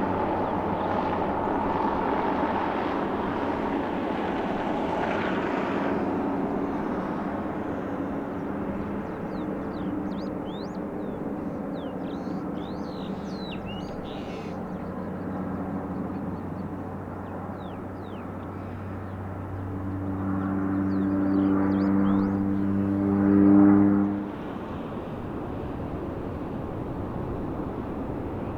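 Aircraft engines running with a steady hum over a wash of noise. The sound swells to its loudest about 23 seconds in, then drops away suddenly. Small birds chirp faintly in the middle.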